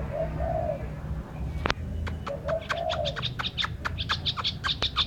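Birds singing: a dove cooing two low phrases, and from about a second and a half in, a fast run of short high chirps from another bird, over a steady low hum.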